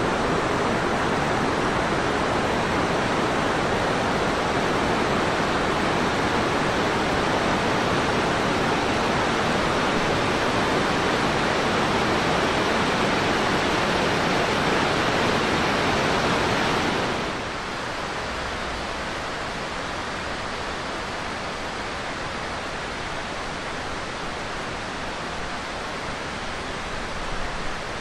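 Steady rush of fast-flowing mountain water, dropping to a softer, steady rush about two-thirds of the way through.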